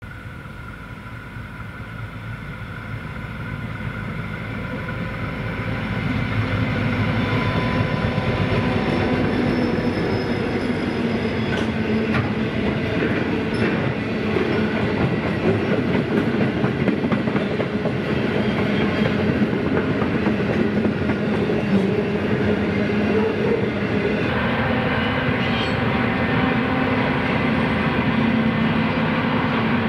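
Freight train hauled by 81 class diesel-electric locomotive 8149, whose EMD two-stroke V16 engine is heard. It grows steadily louder over the first six seconds or so as it approaches, then its wagons of rails roll past with a dense, steady rumble. About six seconds before the end the sound changes abruptly to the train crossing a bridge.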